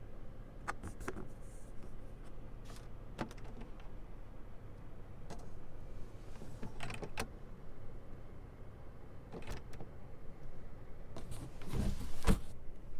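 A scattering of short clicks and knocks from a minivan's fittings being handled, with a louder clunk about twelve seconds in.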